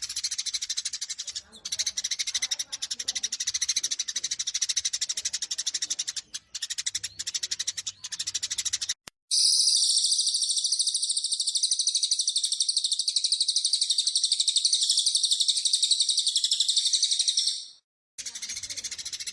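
Edited bird-lure recording of Eurasian tree sparrows in a rapid, agitated fighting chatter. About nine seconds in it cuts abruptly to a dense, continuous high trill of another songbird. Near the end it cuts back to the sparrow chatter.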